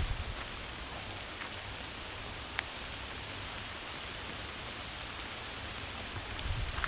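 Steady rain falling, an even hiss with a few single louder drop ticks, one standing out a little before the middle.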